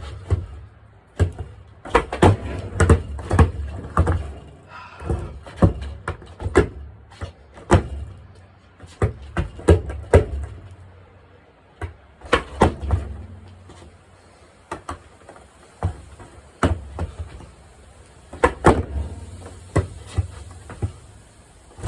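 Skate deck tricks: clusters of sharp clacks and knocks as the board is popped, flipped and landed, with a low rolling rumble of the wheels between them. The clatter comes in bursts every couple of seconds, with a quieter stretch of rolling about two-thirds through.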